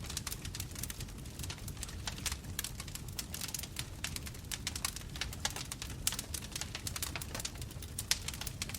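Bonfire crackling: a rapid, irregular scatter of sharp pops and snaps from burning wood over a low, steady rumble of flames.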